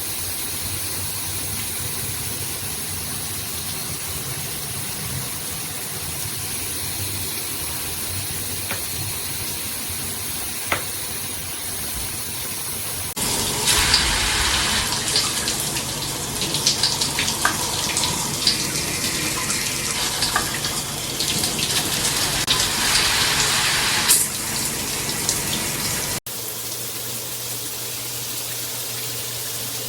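Handheld rain shower head spraying water with a steady hiss. About 13 seconds in the spray turns louder and splashier with irregular spatters for about ten seconds, then the sound cuts abruptly to another steady spray.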